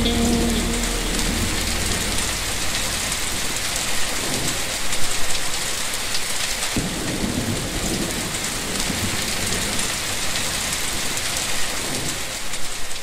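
Steady heavy rain with rolls of thunder rumbling a few times. The last notes of a song fade out in the first second.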